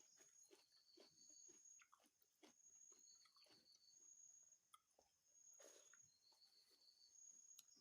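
A person eating chicken curry with rice, with soft close-up chewing and many quick wet smacks and clicks.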